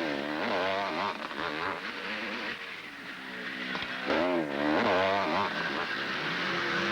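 Motocross motorcycle engines revving hard, the pitch rising and falling again and again as the riders work the throttle, loudest about four seconds in.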